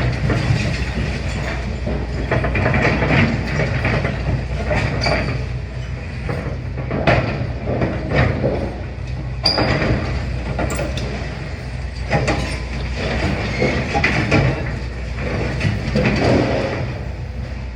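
Demolition excavator's diesel engine running steadily under a string of sharp knocks, cracks and clanks of rubble being broken and dropped.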